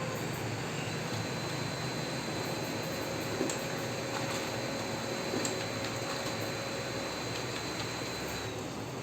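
Brother HL-L2321D laser printer running, a steady mechanical hum with a thin high whine that stops near the end, and a few light clicks.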